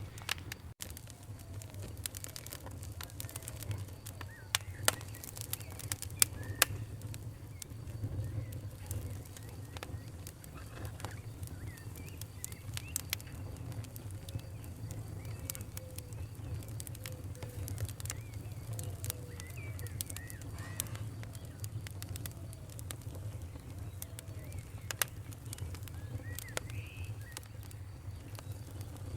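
Wood fire crackling, with irregular sharp pops and snaps over a steady low rumble. Small birds chirp now and then in the background.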